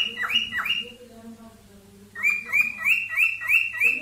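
Cockatiel mating call: a rapid run of sharp whistled chirps, each sliding quickly downward, about four a second. The run breaks off just under a second in and starts again after a pause of about a second.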